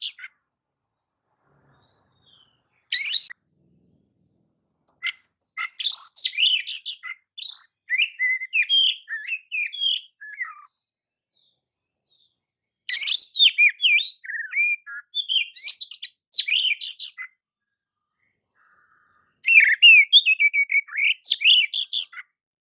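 Oriental magpie-robin (kacer) singing rapid, varied, high-pitched phrases. A short burst comes about three seconds in, then three longer runs of song separated by pauses of a few seconds.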